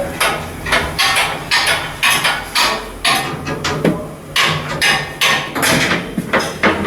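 Repeated hammer blows, about three a second in an uneven rhythm, with a short pause near the middle.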